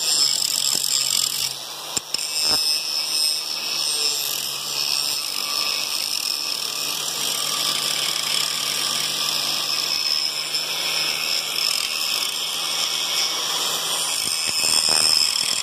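Power grinder running continuously and steadily under load, grinding the tip of a 3/4-inch metal stake down to about half an inch to make a spring winding bar. The sound is a steady, high-pitched hiss.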